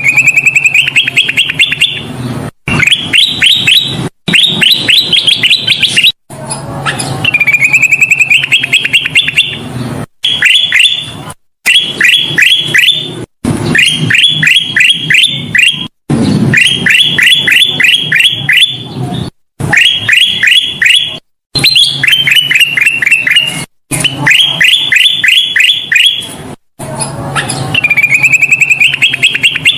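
Kutilang emas (ruby-throated bulbul) singing over and over: phrases of a dozen or so quick clipped notes, each phrase one to two seconds long, broken by sudden short silences where the looped recording is spliced.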